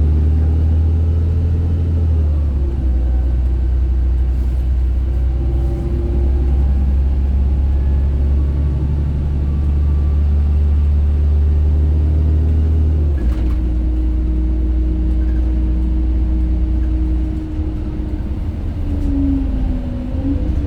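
LiAZ 5292.67 city bus with its Weichai WP7NG280E51 natural-gas engine under way, heard on board: a deep steady rumble with a whine above it. The rumble's pitch drops abruptly about thirteen seconds in, and a wavering whine comes in near the end.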